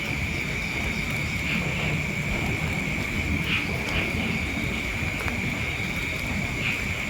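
Steady, unbroken high-pitched drone of night insects, with a low rumble of noise underneath.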